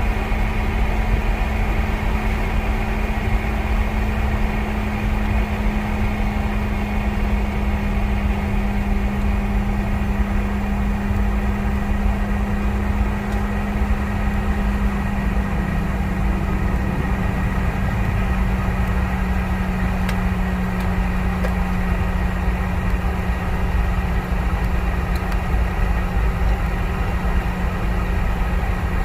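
Cabin noise inside a Boeing 717-200: the rear-mounted Rolls-Royce BR715 engines run with a steady drone over a low rumble, the main tone dropping slightly about halfway through.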